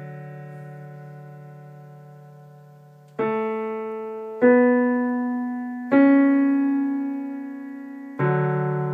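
Keyboard played slowly, one note at a time, with a piano sound. A held note dies away, then four more notes are struck at uneven gaps of one to two seconds, each left to ring and fade.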